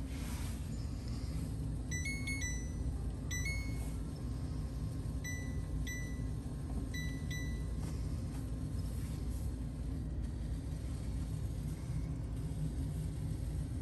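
Mini fridge's electronic control panel beeping: about seven short high beeps, some in quick pairs, over the first half, over a steady low rumble.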